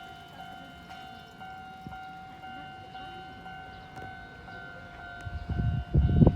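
Konan Railway 7000 series electric train standing at the platform with a steady high whine. About five seconds in, loud low rumbling thumps start as the train begins to move off.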